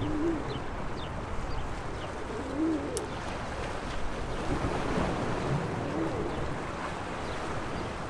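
Sea waves washing against the shore in a steady wash, with a dove cooing several times in short low calls and a few faint high bird chirps.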